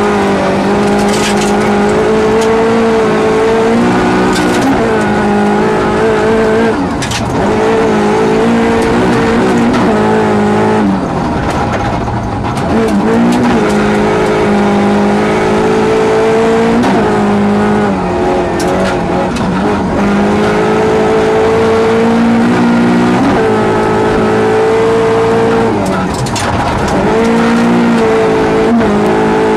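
Rally car engine at high revs, heard from inside the cabin, climbing in pitch and dropping back at each gear change several times over gravel-road tyre noise.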